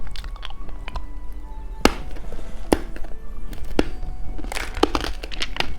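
A hard-candy lollipop being bitten and crunched: a series of sharp cracks about a second apart, coming faster near the end, over background music.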